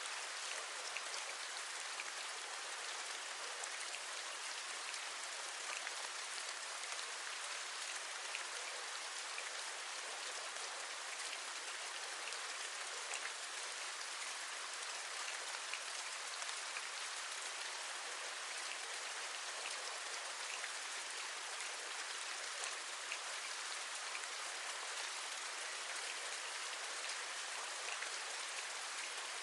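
Steady rain: an even hiss with many small raindrop ticks scattered through it, raindrops tapping on a window ledge.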